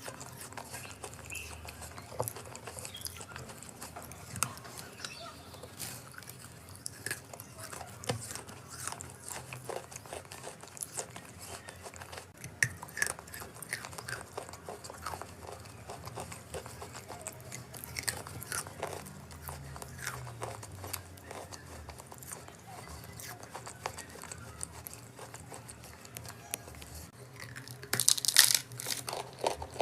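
Chalk being bitten and chewed: irregular crunches and crackles, with a louder burst of crunching near the end.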